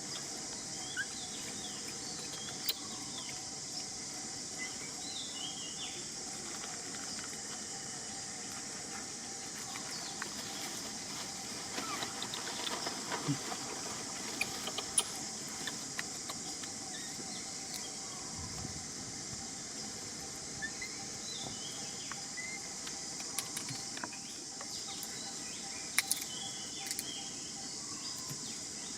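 Outdoor rural ambience: a steady high insect buzz with short bird chirps scattered through it, and now and then sharp clicks or snaps.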